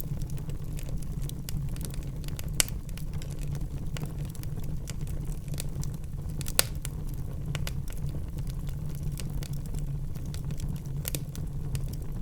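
Wood fire crackling, with frequent small pops and two sharper pops a few seconds apart over a steady low rumble.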